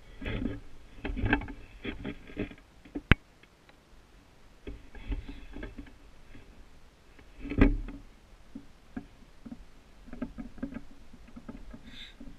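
Boots crunching and swishing through deep fresh snow in uneven steps, with a sharp click about three seconds in and a heavy thump about halfway through.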